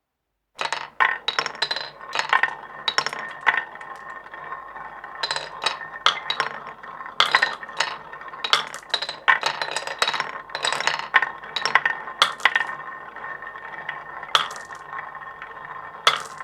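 Marbles running through a marble run: a continuous rolling hum with many irregular sharp clinks and clacks, starting suddenly about half a second in.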